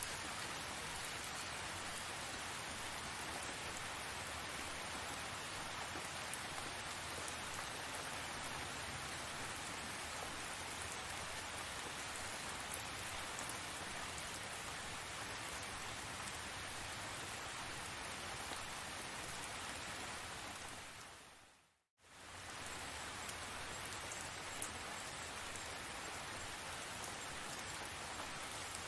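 Steady tropical rain falling, with scattered sharp drop ticks. About three quarters of the way through it fades down to silence for a moment and comes straight back.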